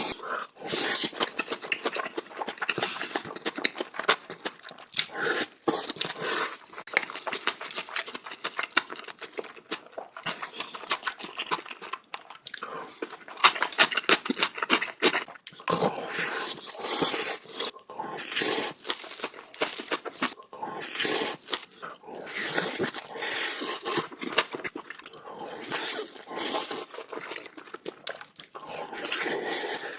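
Close-up eating sounds of big mouthfuls of bibimbap: wet chewing and mouth smacking, a dense, irregular run of clicks and crunches.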